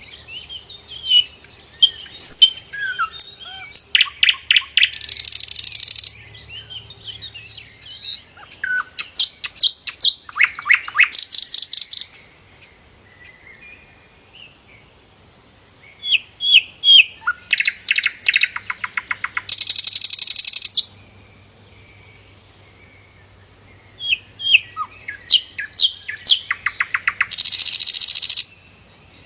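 Sikatan londo flycatcher singing in full voice: four song bouts, each of scattered chirps and short whistles building into a fast, buzzy rattling trill lasting a couple of seconds, with short pauses between bouts.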